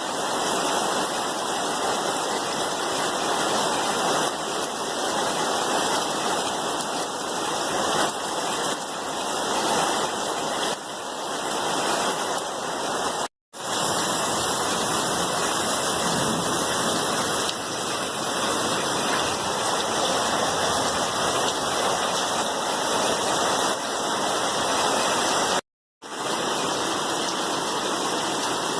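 Steady heavy rain, a dense even hiss with no rhythm, cut by two brief dropouts to silence, one about halfway through and one near the end.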